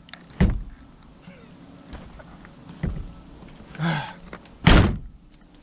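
A Subaru Legacy's car door slammed shut twice, a heavy thunk about half a second in and a louder one near the end, with a lighter knock between. The door is awkward to shut.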